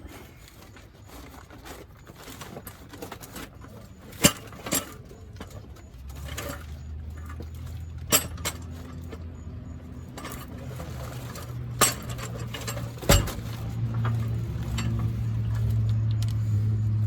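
Scattered sharp metallic clinks and knocks of tools and parts being handled, about five in all, the loudest a little after four seconds in. A low steady hum comes in about six seconds in and grows louder toward the end.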